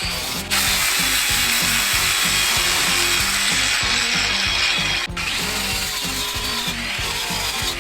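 Power tool, most likely an angle grinder, grinding down the sharp edges of a steel anvil, a loud steady hiss of abrasive on metal that starts about half a second in and breaks off briefly about five seconds in.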